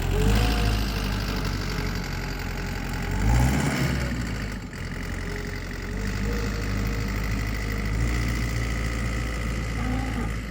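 Rented tractor's engine running steadily while it scrapes soil, rising briefly in loudness about three and a half seconds in.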